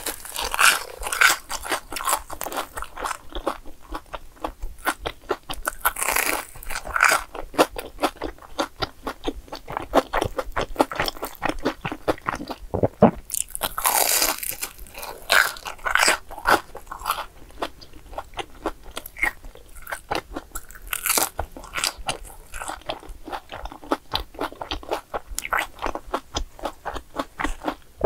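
Close-miked crunching and chewing of a crisp, breadcrumb-coated fried cheese ball, with repeated crunchy bites and irregular crackles as the crust is chewed.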